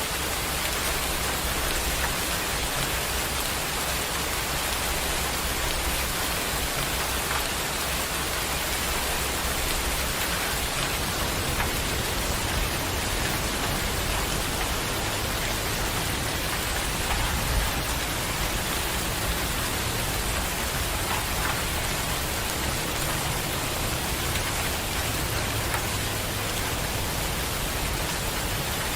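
Steady, even rain falling and pattering on surfaces, with a low rumble underneath that shifts slightly and swells briefly about two-thirds of the way through.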